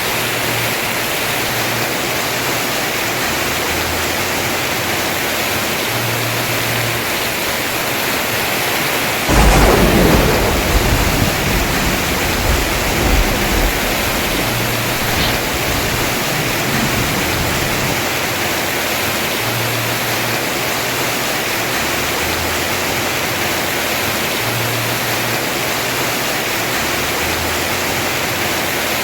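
Heavy rain falling steadily on a house roof, with one sudden clap of thunder about nine seconds in that rumbles away over the next few seconds.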